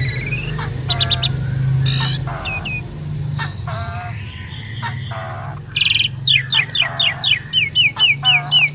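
Two jalak suren (Javan pied starlings) singing: a mix of varied whistles and chattering notes. Near the end comes a fast run of about a dozen short falling whistles, roughly five a second.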